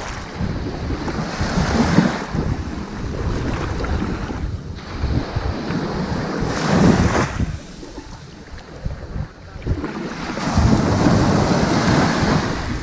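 Ocean waves washing onto a sandy beach, the surf swelling and ebbing with several wave surges and a brief lull between them. Wind buffets the microphone throughout.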